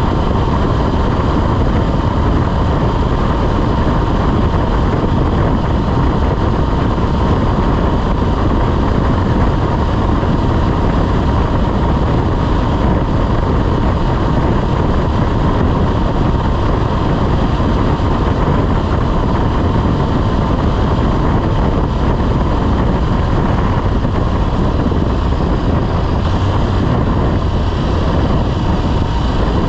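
Motorcycle riding at a steady pace, its engine running under heavy wind rush over the microphone.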